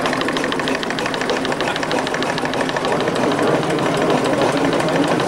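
Small model heat engine running, its mechanism giving a rapid, even ticking over a mechanical clatter.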